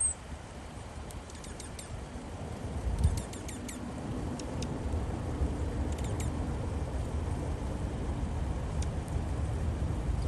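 Small birds chirping: a few clusters of short, very high twittering notes, over a steady low rumble of wind on the microphone.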